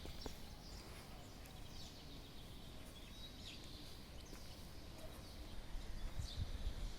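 Birds calling: short high chirps that sweep down in pitch, repeated irregularly about every second, over a low steady rumble.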